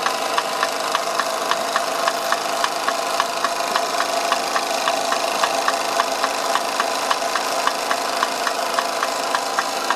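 1930s Bing twin-cylinder toy steam engine running steadily, with a hiss of steam and an even clicking about three times a second.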